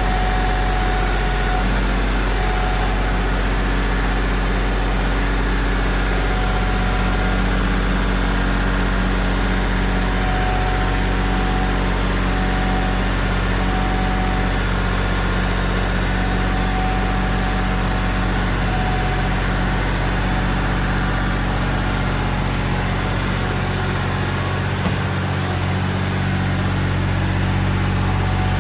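Loader engine running steadily, with a constant low hum. Near the end the lowest part of the hum briefly drops away.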